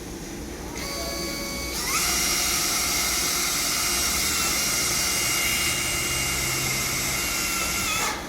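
Electric motor whining at high speed: it comes on faintly just under a second in, speeds up with a short rising whine about two seconds in, runs steadily, and stops quickly near the end.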